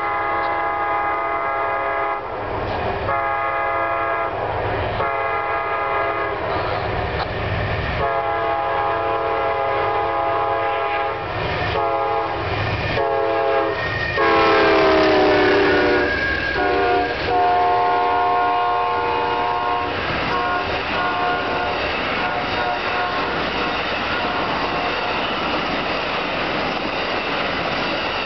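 The air horn of an Amtrak Auto Train's GE Genesis locomotive sounds a series of blasts, mostly long with a couple of short ones, as it approaches. The horn drops in pitch at about 14 to 16 s as the locomotive passes and sounds on lower for a few seconds. The long train of bilevel passenger cars then rolls steadily past.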